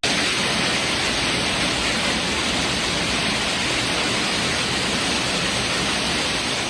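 Heavy hail and rain pouring down in a steady, dense hiss during a severe thunderstorm.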